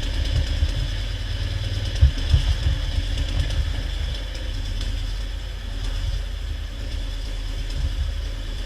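Old tracked bulldozer's engine running steadily at a low rumble, with a few knocks about two seconds in.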